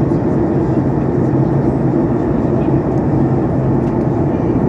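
Steady engine and airflow noise inside a passenger aircraft's cabin during the landing approach, an even rushing sound with a constant low hum underneath.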